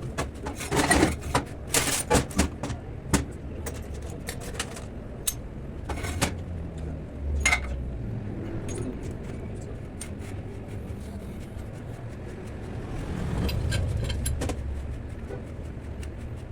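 Metallic clinks and knocks of hand tools working on a car's suspension, a rapid cluster of them at first and then scattered single ones, over a low steady rumble that swells and fades later on.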